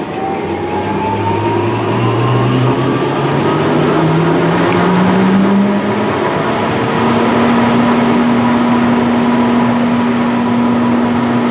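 Luke & Spencer 24-inch duplex high-speed grinder's 10 hp motor running up to speed after start-up. Its hum rises in pitch for about six seconds, then holds steady over a constant rush of air.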